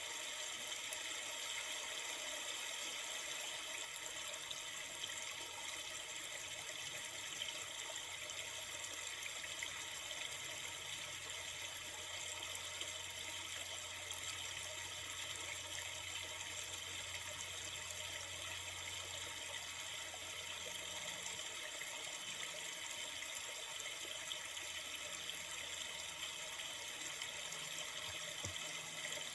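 River water flowing: a steady, even sound of running water.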